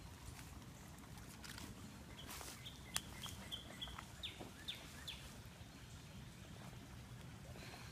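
A bird calls a quick run of short high notes, then three down-slurred notes, over a low steady outdoor rumble. Light rustling and a single sharp snap about three seconds in come from a person shifting and sitting down on the forest floor.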